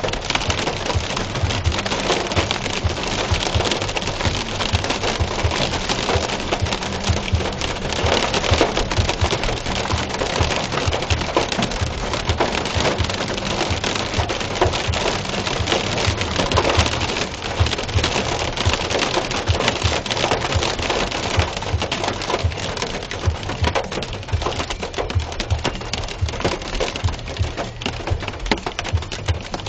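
Heavy rain and hail pelting a car's roof, heard from inside the car: a dense, loud, continuous rattle of small impacts over a low steady hum.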